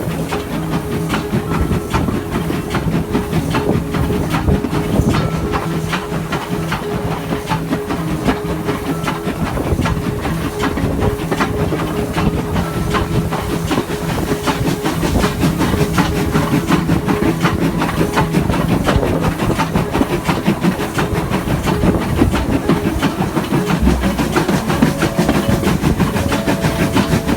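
Steam train on the move: a continuous hiss of steam with dense rattling and clicking from the running gear and carriages, under a steady low hum.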